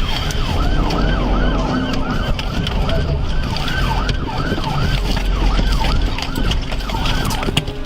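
Police car sirens in rapid yelp mode, each sweep rising and falling about two to three times a second and sometimes overlapping, over a steady low rumble.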